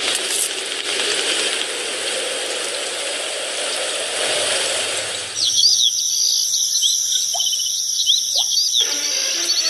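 Steady rushing noise, then a sudden change about halfway through to outdoor nature ambience: a steady high insect trill with bird chirps over it.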